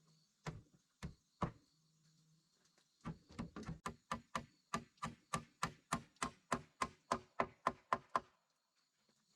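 Repeated knocking blows of a hand tool: three separate knocks, a pause, then a fast even run of about eighteen knocks at three to four a second that stops abruptly.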